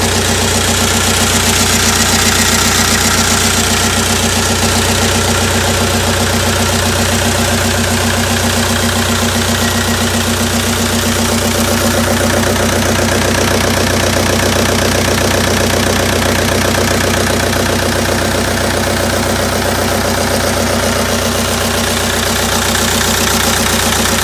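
Deutz F4L-1011F four-cylinder diesel engine running at a steady speed, with an even diesel clatter.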